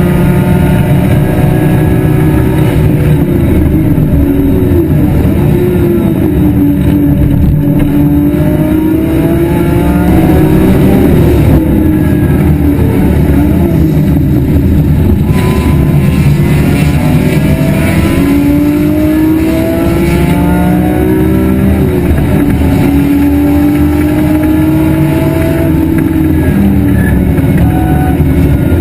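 BMW E46 M3's inline-six engine running hard under racing load, heard from inside the car. Its pitch climbs and falls again and again as the car works through the gears.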